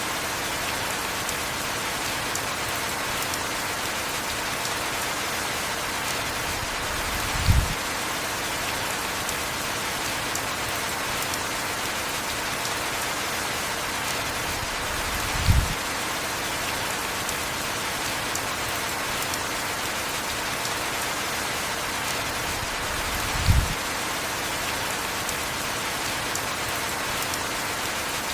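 Heavy, steady rain. A short, low thump stands out above it every eight seconds or so, three times in all.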